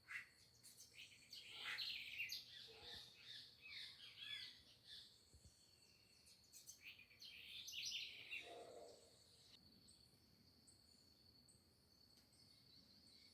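Small birds chirping faintly, a flurry of short high calls over the first eight seconds and then dying away, with a lower call about eight and a half seconds in and a faint steady high-pitched hum underneath.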